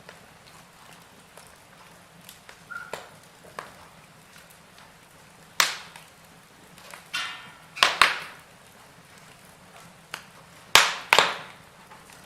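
Burning logs crackling in a fireplace: irregular sharp pops and snaps over a soft background hiss, the loudest pair about eight seconds in and another pair near the end. A brief whistling hiss runs just before the pops at eight seconds.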